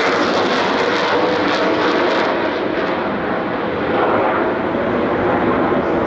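Fixed-wing aircraft engines overhead, loud and steady, the highest hiss dropping away a little over two seconds in.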